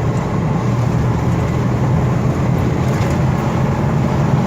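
1982 Ford F250's 300 cubic-inch (4.9 L) inline-six engine running under load with a steady low drone as the truck accelerates from 60 toward 70 mph.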